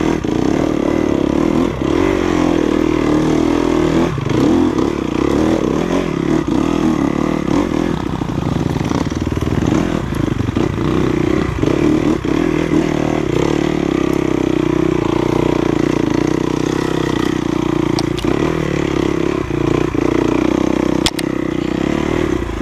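Off-road enduro motorcycle engine running under changing throttle while riding a trail, the note dipping and picking up again. There are a few sharp knocks and rattles.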